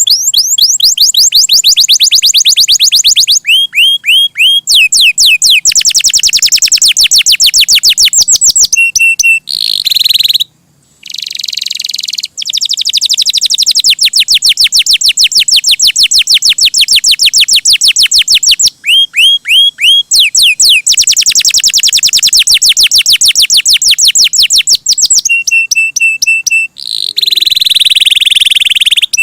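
Domestic canary singing almost without pause: long rolled phrases of fast repeated high notes and steady trills, switching from one phrase to the next. There is a brief break a little after ten seconds in.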